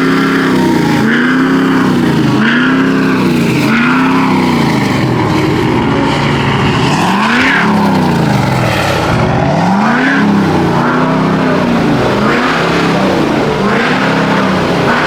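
A truck engine being revved again and again, its pitch climbing and dropping with each blip of the throttle, roughly once a second, with one slower, longer rev about halfway through.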